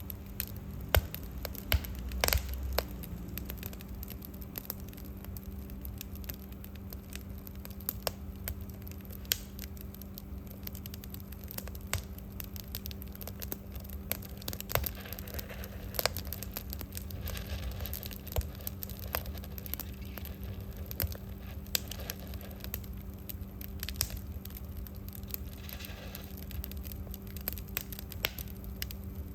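Wood fire burning in a fireplace, crackling with irregular sharp pops, over a steady low hum.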